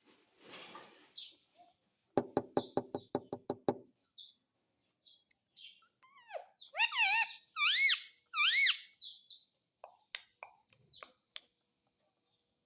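Pet green parrot calling: a quick rattling chatter of about ten pulses, then several loud calls that sweep up and down in pitch, followed by a few soft clicks.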